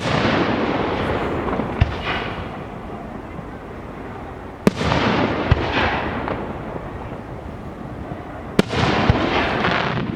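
Fireworks display: aerial shells bursting with sharp bangs, three big bursts about four seconds apart, each trailing off over a few seconds, with a few smaller pops between them.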